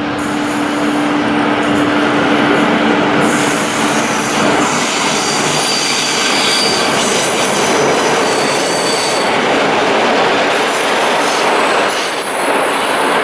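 Passenger train rolling into the station, a steady rumble of steel wheels on rail with high-pitched wheel squeal coming and going above it.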